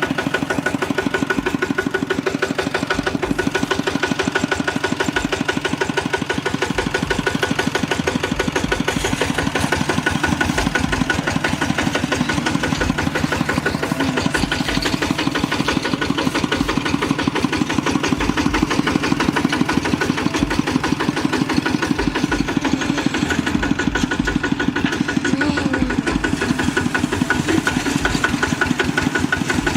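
Kubota RT walking tractor's single-cylinder diesel engine running steadily with a rapid, even knocking beat.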